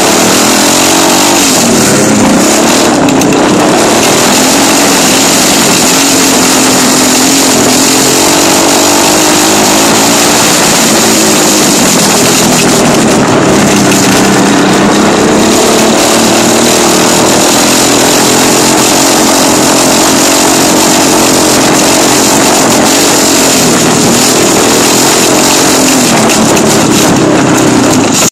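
Dirt bike engine running hard and loud, its pitch rising and falling again and again as the throttle is opened and closed.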